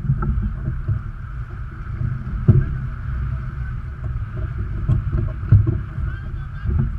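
Sailboat under way: steady rushing water noise with wind buffeting the microphone as a rough low rumble, and a few louder thumps, the strongest about two and a half seconds in and again around five seconds in.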